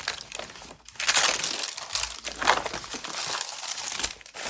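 Paper rustling and crinkling in irregular bursts as journal pages and loose papers are handled and shifted about.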